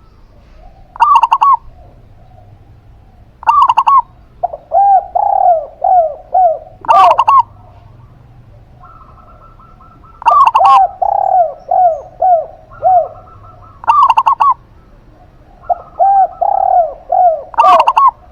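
Zebra dove and spotted dove cooing in turn: repeated phrases of quick higher notes, answered by runs of lower, falling coos, every few seconds.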